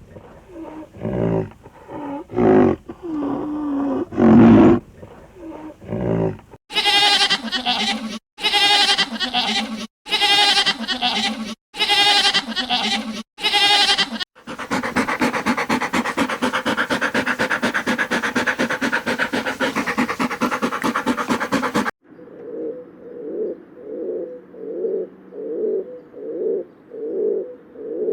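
A run of farm animal calls: a few short low calls, then a goat bleating five times in a wavering voice, then one long unbroken call of about seven seconds. From about two-thirds of the way in, a pigeon coos softly and rhythmically.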